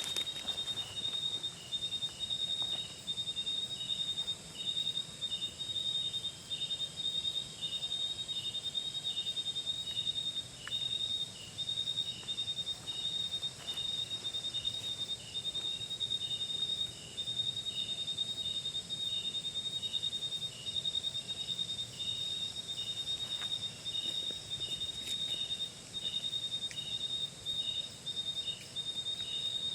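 Insects chirping: a high, pulsing trill that breaks off briefly every second or two, with a second, slightly lower insect chirping in a steady beat beneath it, a little more than once a second.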